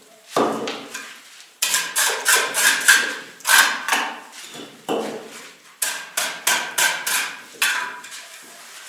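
Hard clay bricks knocking and clinking against one another as they are set down and stacked, a dozen or so sharp strikes with a short ringing, in quick irregular runs.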